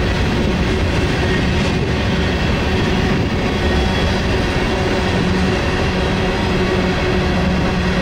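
Freight train cars rolling past at steady speed: a continuous rumble of steel wheels on rail.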